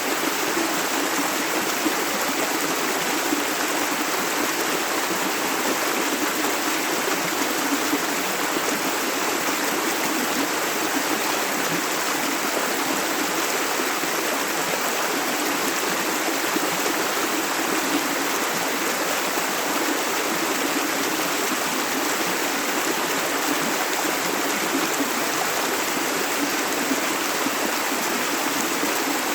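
Clear river water running over stones in a steady rush, with no pauses or changes.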